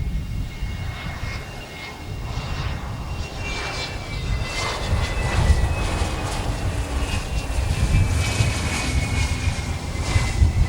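Small business jet's turbofan engines running: a high whine, slowly falling in pitch, over a low uneven rumble.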